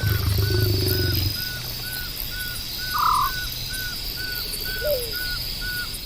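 Bush ambience: a short chirping call repeating evenly about twice a second over a steady high insect drone. A low growling sound comes in the first second, and a louder short call comes about three seconds in.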